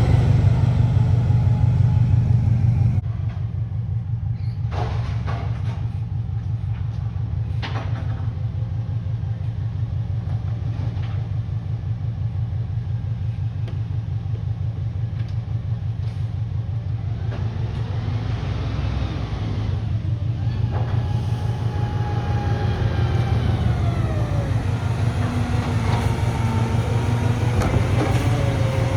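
Garbage truck's diesel engine running steadily with a low, even pulse, dropping in level about three seconds in. From about twenty seconds in, a higher whine that rises and falls joins it.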